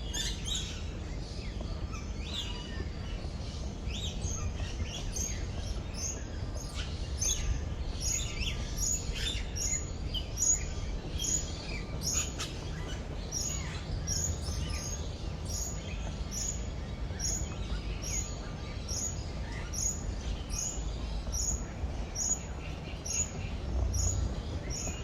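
Many birds chirping and calling over one another in short, high notes. From about halfway through, one bird repeats a single short high note steadily, a little more than once a second.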